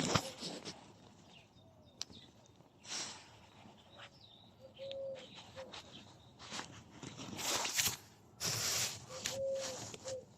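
Short, low cooing notes repeated several times, like a dove, with louder bursts of noise in between.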